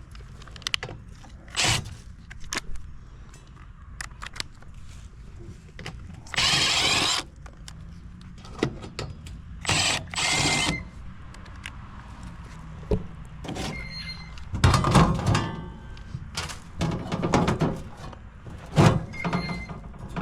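Knocks, clunks and rattles of hands and tools working on HVAC equipment, with a few roughly second-long bursts of noise and a steady low hum underneath.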